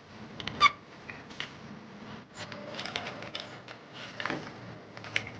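Small hand tools clicking and scraping on an opened iPhone 13 during disassembly. One sharper click with a short ring comes about half a second in.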